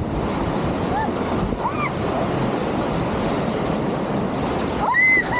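Rushing, churning rapids water around a river raft, a steady loud wash. A few short voice sounds come through, and about five seconds in a brief high-pitched cry, the loudest moment.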